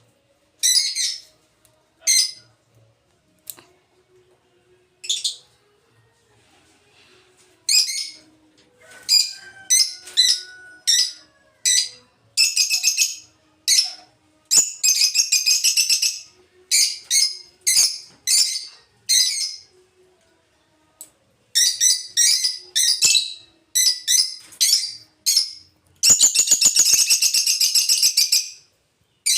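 Lovebirds chirping in short, sharp, high calls, scattered at first and coming faster and closer together from about halfway on, with one long unbroken run of chatter near the end.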